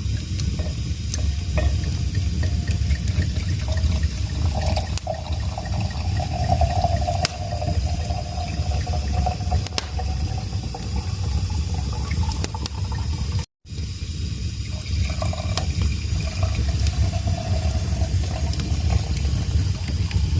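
Wood fire burning in a fireplace: a steady low rumble of the flames with scattered sharp crackles, and a thin whistle that rises in and fades out twice.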